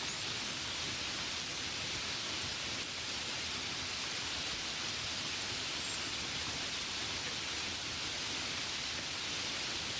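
Gentle rain falling steadily, an even hiss with no single drops standing out.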